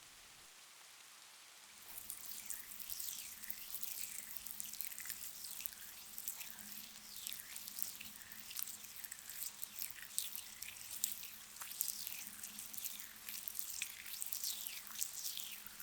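Close-up wet, crackly squishing of a gritty facial scrub being worked between fingers, a dense run of tiny pops and crackles that starts about two seconds in.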